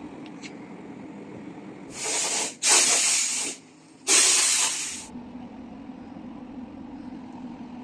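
Three short bursts of hissing spray, about a second apart, over a steady low hum.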